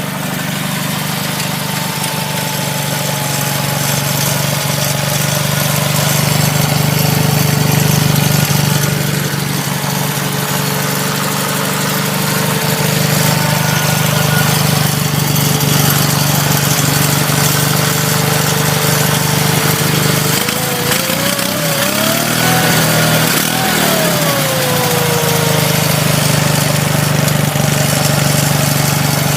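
1977 Sears Suburban 18/6 garden tractor's Onan twin-cylinder engine running steadily after a cold start from a month of sitting. About two-thirds of the way through it revs up briefly, then settles back to its earlier speed.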